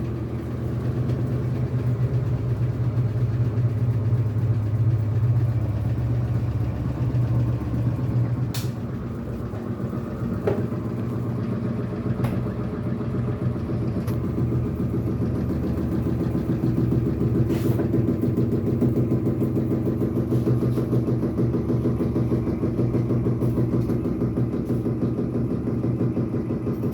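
Electrolux Turbo Economia 13 kg (LAC13) washing machine running out of balance: a steady motor hum with fast, rhythmic knocking as the tub bangs against the cabinet, caused by a broken suspension spring.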